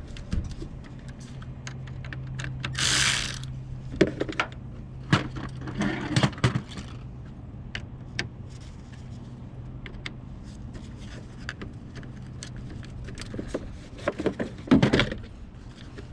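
Hand tools and metal parts clicking and clinking as the car battery's terminals are loosened and the battery is freed, with a short rustle about three seconds in.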